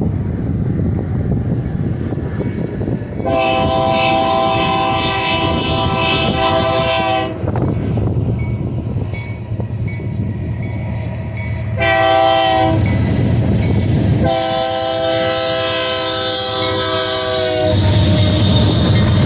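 A Union Pacific GE C44ACM diesel locomotive sounding its multi-chime air horn three times, long, short, long, over the steady rumble of the moving freight train. The rumble grows louder near the end.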